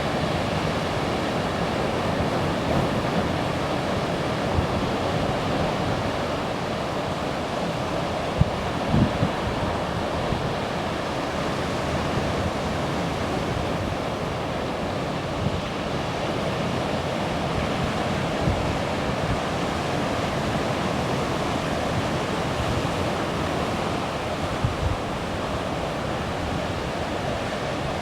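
Sea waves washing steadily on the shore, with wind on the microphone and a few short low thumps scattered through.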